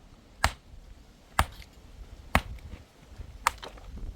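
Four sharp, evenly paced blows about a second apart: a hand tool striking repeatedly in steady work, like hammering or chopping.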